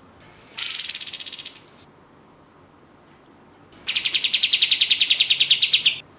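Kapas tembak (katem) songbird giving its rapid, rattling 'tembak' song: two fast pulsed trills of many notes a second, a short high one and then a longer, lower one.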